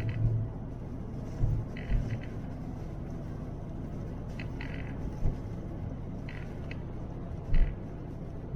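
Car cabin noise while driving on a highway: a steady low rumble of engine and tyres, with a few short thumps about a second and a half, two seconds and seven and a half seconds in.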